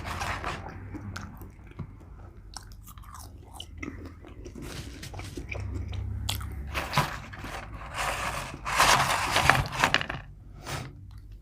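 A person chewing and biting into fast food close to the microphone, with crunchy bites. The chewing is loudest and densest about nine seconds in.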